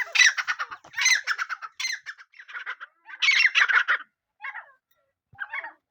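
Francolin calling: a series of bursts of rapidly repeated notes, the last few shorter and fainter.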